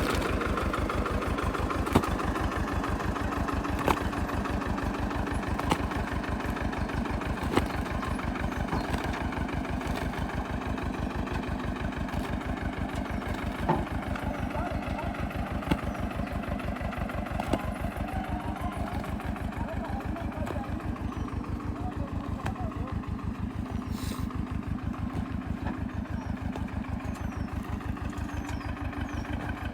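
Swaraj 724 tractor's diesel engine running steadily at idle with an even chugging beat. Sharp knocks come about every two seconds through the first half.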